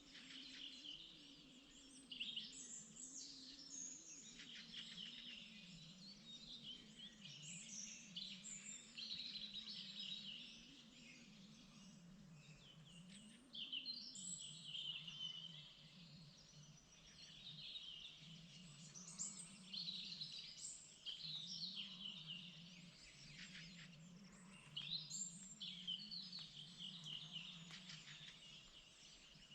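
Several songbirds singing at once, overlapping chirps, trills and short phrases that never stop for long. A faint low wavering hum runs underneath.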